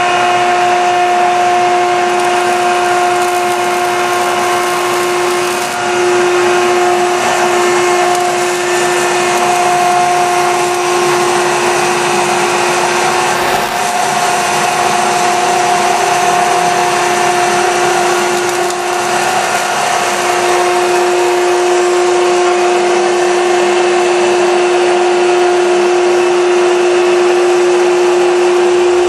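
Piqua Series 40 vertical baler's hydraulic power unit, a 7.5-hp three-phase electric motor driving the pump, running through a baling cycle with a steady, loud hum and whine, dipping slightly a few times.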